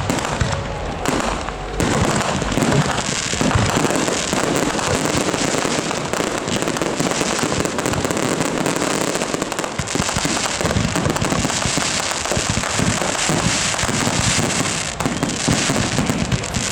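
Fireworks display going off in a dense, continuous barrage of rapid pops and bangs.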